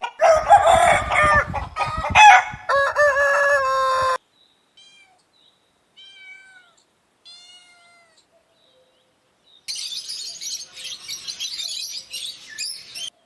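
Rooster crowing, a loud call of about four seconds that ends in a long held note. It is followed by a few faint, short falling calls, then about three seconds of dense high-pitched chirping.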